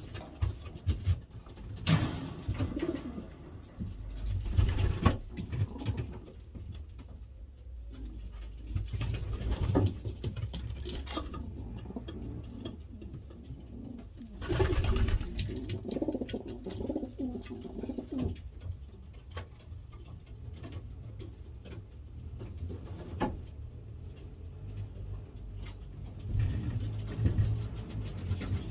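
Racing pigeons cooing in a loft, with several sharp knocks and rustles scattered through.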